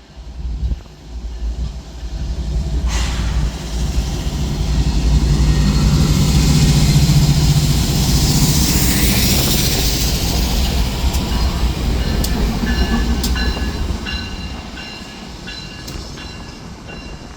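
A train rolling past close by: a low rumble that builds over the first few seconds, is loudest in the middle, and fades toward the end, with a few sharp clicks and thin high squeals from the wheels in the later part.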